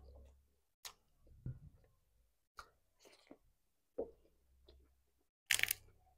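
Close-up chewing of deep-fried fish and rice: scattered soft mouth clicks and small crunches, with one louder, crisper crunch about five and a half seconds in.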